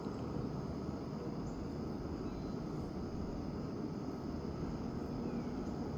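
Steady low outdoor rumble with no distinct events, with a faint steady hiss higher up.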